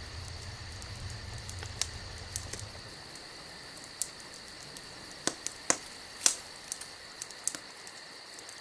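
Campfire crackling, with sharp pops scattered irregularly through. Under it runs a steady high-pitched trill, and a low rumble fades out about three seconds in.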